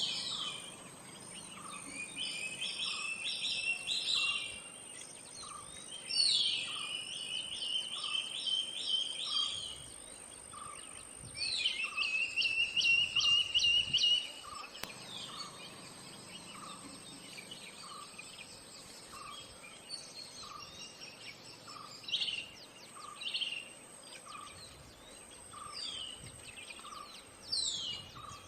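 Silver-breasted broadbill calling: three runs of rapid repeated notes, each about three seconds long, in the first half, then shorter single calls. Underneath are a steady high-pitched whine and a soft pip about once a second.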